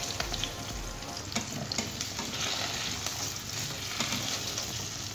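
Potato chunks sizzling in hot olive oil in a stainless steel pan, turned with a wooden spatula that scrapes and taps against the pan now and then.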